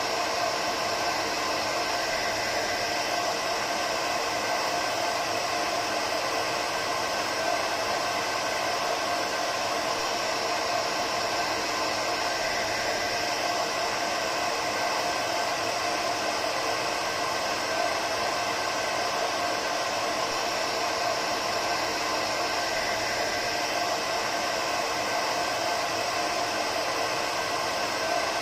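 Hair dryer running continuously: a steady rush of blown air with a faint motor hum, unchanging throughout.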